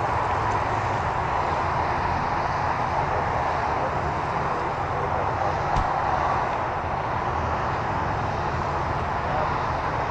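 Boeing 787-8 Dreamliner's jet engines heard as a steady rush of noise as the airliner comes in to land, with one brief click about six seconds in.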